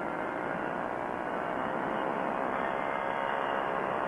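Quicksilver ultralight's engine and propeller droning steadily in cruise flight.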